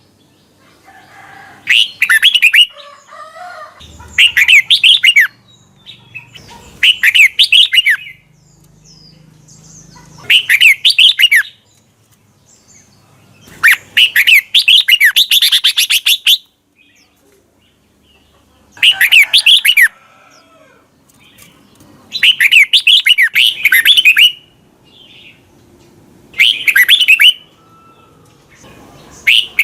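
Red-whiskered bulbul singing: short, loud phrases of quick sweeping whistled notes, repeated about every three seconds with quiet gaps between them. One phrase near the middle is longer.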